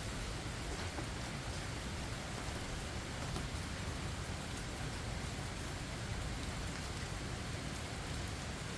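Steady rain falling: an even, continuous hiss with a low rumble underneath and no separate strikes.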